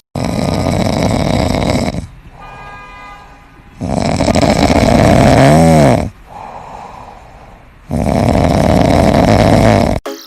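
Loud snoring: three long, harsh breaths about four seconds apart, with quieter breaths between them.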